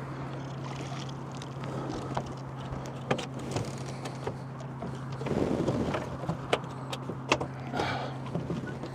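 Steady electric hum of a bass boat's trolling motor, with scattered sharp ticks and clicks and a brief rush of noise about five seconds in.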